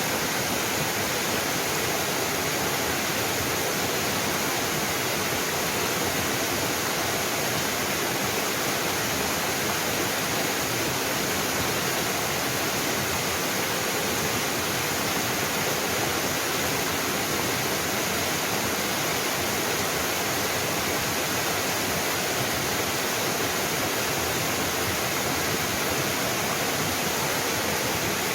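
Waterfall cascading, a steady dense rush of falling water.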